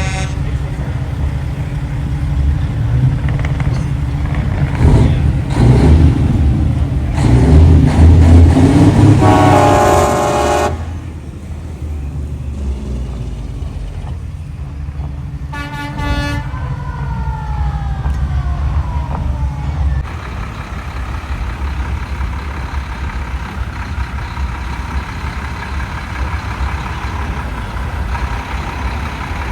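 Big-rig semi-truck diesel engines rumbling past, swelling louder for several seconds, with a truck air horn blasting about a third of the way in. A second blast comes around the middle, and its tones then fall in pitch for a few seconds as the truck passes.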